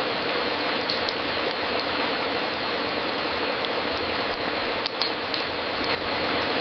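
Wood fire crackling in a fireplace: a steady hiss with a few sharp pops, a couple about a second in and a cluster around five to six seconds in.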